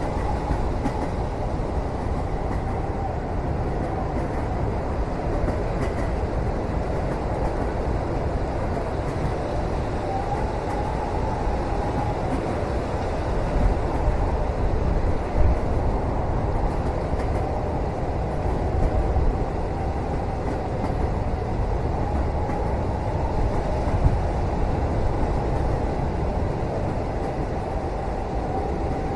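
Train running, heard from inside the carriage: a steady low rumble of the wheels on the track with a faint wavering whine above it, and a few light knocks around the middle and near the end.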